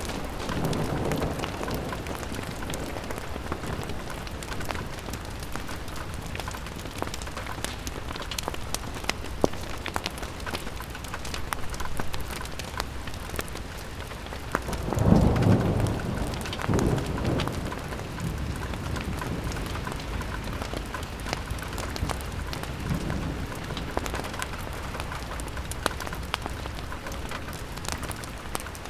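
Rain pattering steadily on a window pane, thick with small drop ticks. A low rumble swells and fades about halfway through, with a smaller one just after.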